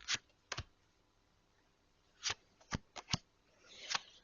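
Tarot cards being handled and laid down: a scattered series of about seven short, sharp card snaps and slaps.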